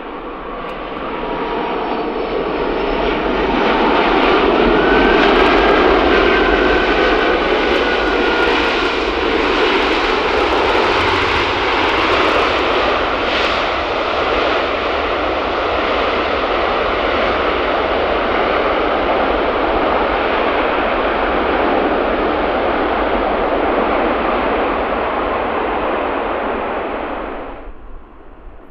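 Jet engines of a FedEx cargo jet arriving, loud and steady after building up over the first few seconds, then stopping abruptly near the end.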